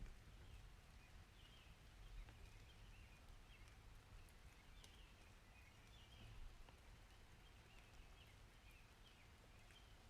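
Faint steady rain with a low rumble underneath and scattered small drips. Short, high chirping calls recur every second or so.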